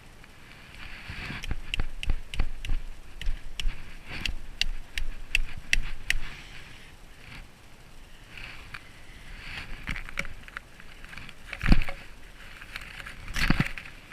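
A run of sharp, irregular clicks and knocks, then a few heavier thuds near the end: a kayak being worked through shallow water, with paddle or pole knocking against the plastic hull.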